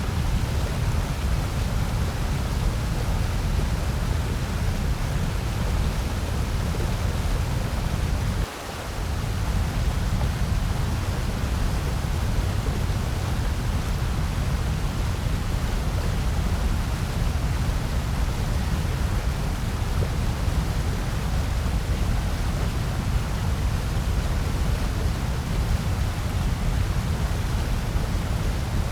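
Steady synthetic noise, an even hiss weighted toward the low end so it has a deep rumble under it, with a brief drop in the rumble about eight and a half seconds in.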